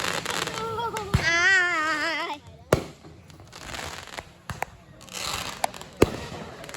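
Fireworks going off: sharp bangs at uneven intervals, a second or so apart. Near the start a wavering pitched tone wobbles up and down for about two seconds.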